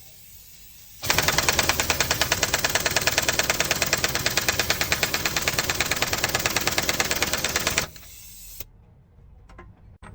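A machine clattering in a fast, even rhythm of sharp strokes, about nine a second. It starts about a second in and cuts off sharply near the end.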